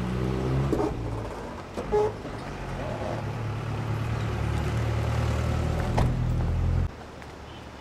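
A motor vehicle's engine running close by, a steady low hum that climbs briefly in pitch about half a second in. A short higher note sounds about two seconds in. The engine sound cuts off abruptly near the end.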